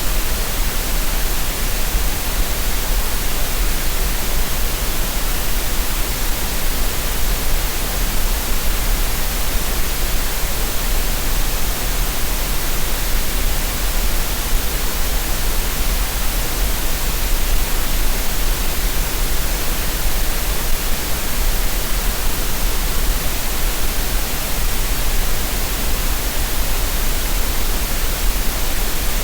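Green noise for relaxation and tinnitus masking: an even, unbroken hiss across the whole range with a strong low hum underneath, never changing.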